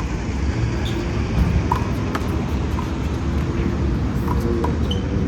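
Steady low rumble of outdoor background noise, with a few faint short knocks scattered through it.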